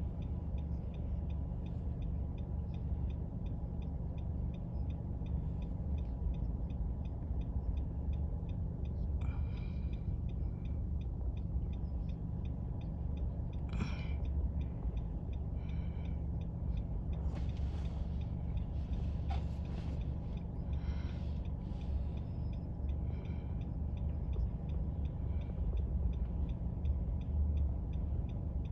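Steady low hum of an idling car engine heard from inside the car, with faint, evenly spaced ticking and a few brief higher sounds about halfway through.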